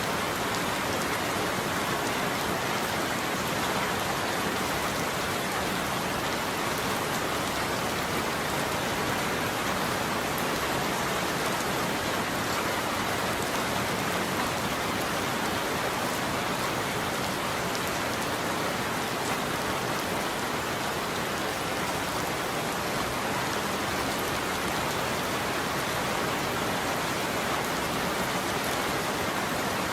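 Steady heavy rain falling on a roof, an even, unbroken patter with no thunder.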